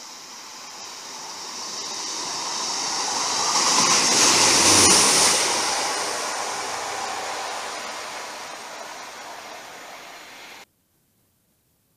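A train approaching at speed and passing beneath: a rushing rail noise with a low rumble that builds to its loudest about five seconds in, with a sharp click at the peak, then fades as it goes away and cuts off suddenly near the end.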